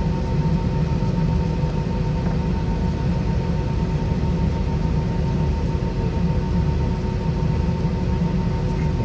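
Steady cabin noise inside an Airbus A320 with IAE V2500 engines: a low rumble with a few steady hum tones running through it and no changes.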